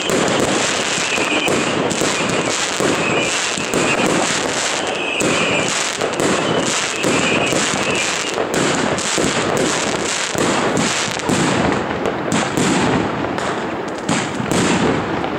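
A 121-shot fireworks battery firing: a dense, continuous run of shots and bursts that crackle without a break.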